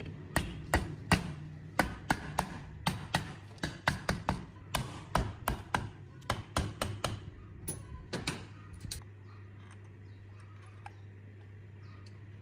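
A rapid, irregular series of sharp taps or knocks, roughly three a second, that stops about nine seconds in, over a low steady hum.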